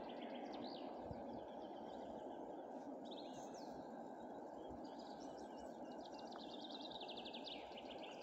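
Songbirds singing, with fast trills of high repeated notes, over a steady low rushing background noise.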